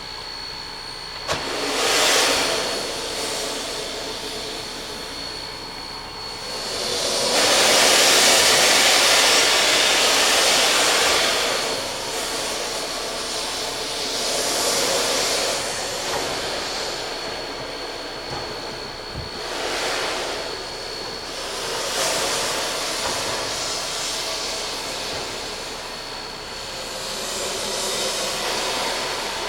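Narrow-gauge K-37 2-8-2 steam locomotive venting steam in irregular loud bursts of hiss, the longest lasting about five seconds, starting some seven seconds in, with shorter ones after it.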